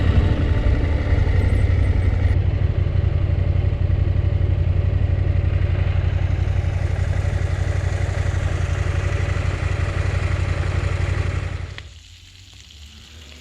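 Motorcycle engine running steadily at constant speed, then cutting off about twelve seconds in, leaving only a quieter low hum.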